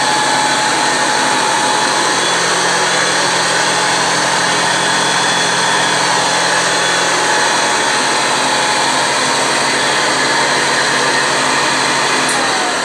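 Hoover Convertible Model 719 upright vacuum, with its aluminum fan, running steadily: a loud rushing of air with a steady high whine. Near the end a click, and the whine starts to fall in pitch as the motor is switched off and begins to wind down.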